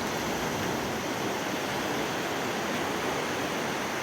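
Ocean surf washing at the shore, heard as a steady rushing noise.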